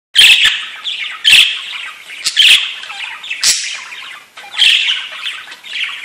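Bird calls: about five loud, harsh squawks, roughly one every second and a quarter, with softer calls between them.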